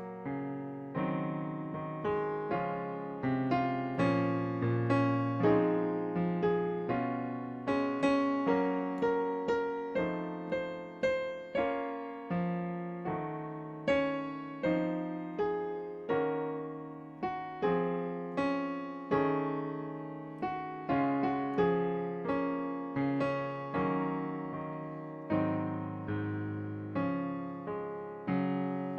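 Electric piano playing a slow instrumental break of the ballad between sung verses: struck chords and melody notes that ring and fade, about one or two a second.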